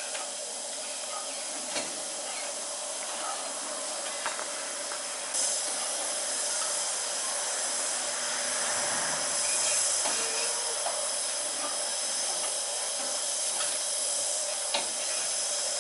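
Steam locomotive hissing steadily as it lets off steam, the hiss growing louder about five seconds in, with a few faint clicks.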